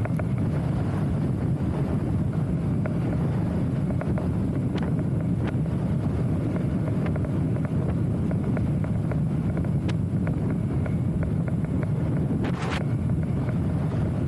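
Wind buffeting the microphone in a steady low rumble, with faint scattered ticks and a short hiss near the end.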